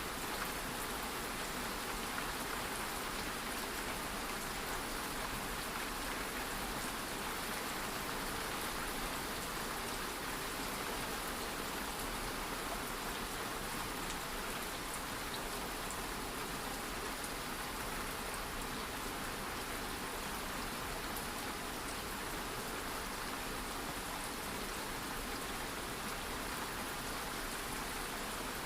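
Steady light rain falling, a constant even hiss with faint patter of drops.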